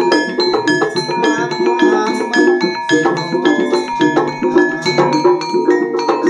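Javanese gamelan ensemble playing: bronze metallophones and gongs struck in a quick, even pulse of ringing notes.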